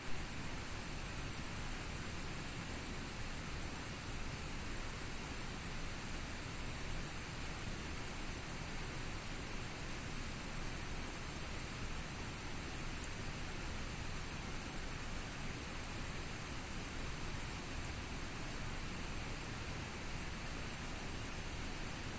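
Campfire burning with a steady hiss, while an insect trills high above it in pulses about every second and a half.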